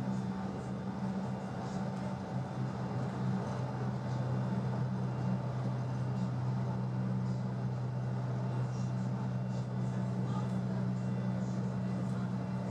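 Running noise inside a regional passenger train travelling at speed: a steady low hum over the even rumble of the wheels on the track.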